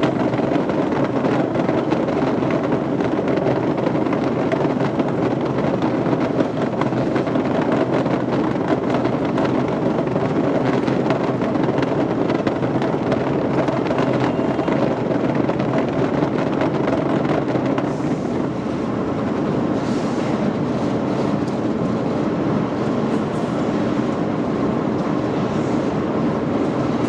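Steady, loud mechanical rumble of running machinery, unchanging throughout.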